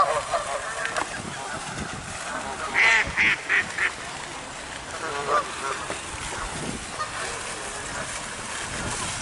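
Geese honking: a quick run of four loud honks about three seconds in, with scattered calls from other waterfowl before and after.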